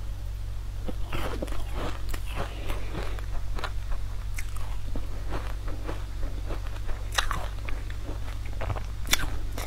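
Close-up biting, crunching and chewing of a crunchy sweet coated in green powder. Sharp crunches come throughout, with a loud one near the end, over a steady low hum.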